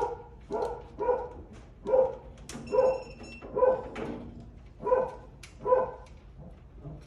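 A dog barking repeatedly, a bark roughly every three-quarters of a second. A short high electronic beep sounds about two and a half seconds in.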